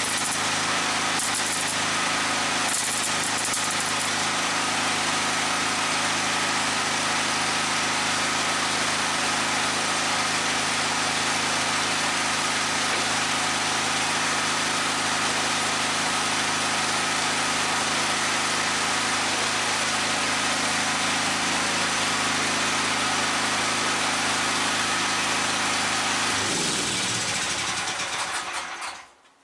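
Electric angle grinder running steadily on steel, then switched off about 26 seconds in, its motor whine falling as it winds down to a stop.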